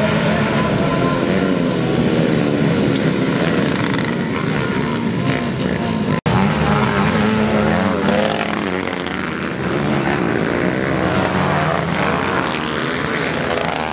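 Several motocross bikes racing, their engines revving up and down in pitch as they accelerate and shift. The sound cuts out briefly about six seconds in.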